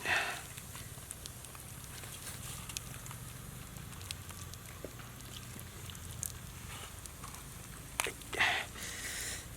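Cooking fire crackling with scattered small pops, and a couple of louder rustling scrapes near the end.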